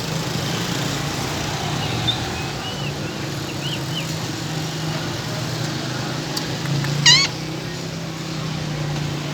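A green Indian parrot gives one short, loud squawk about seven seconds in, with a few faint chirps a few seconds earlier. A steady low hum runs underneath.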